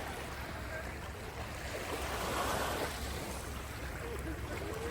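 Waves washing on the beach shore, swelling a little about halfway through, with wind on the microphone.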